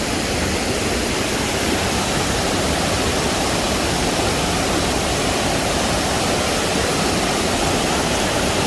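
Waterfall and fast river water rushing steadily, a loud even roar of falling water.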